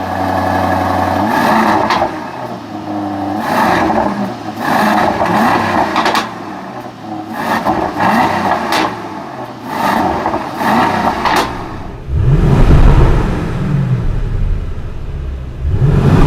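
Aston Martin DBX's AMG-built 4.0-litre twin-turbo V8 revving repeatedly through its exhaust, the pitch climbing and falling with each blip, with sharp crackles between revs and a deeper, louder rev near the end.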